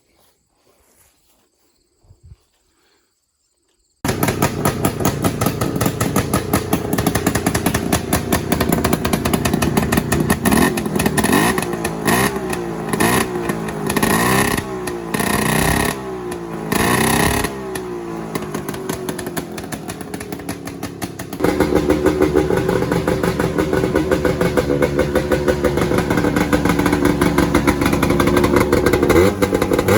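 Snowmobile's Hirth two-stroke twin engine running, cutting in suddenly a few seconds in, with a series of quick throttle blips in the middle, then settling to a steadier, higher and louder run for the rest.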